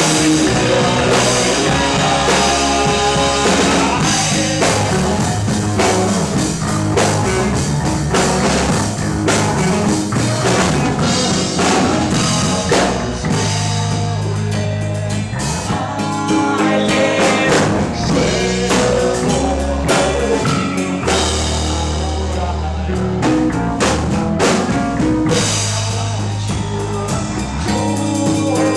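Rock band playing live: drum kit, electric guitars and bass in an instrumental stretch of a song, with some singing.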